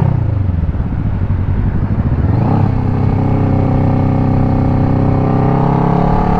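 Kawasaki Ninja 650's parallel-twin engine under way: the revs drop at first, then rise about two and a half seconds in and hold steady, climbing slowly as the bike pulls away.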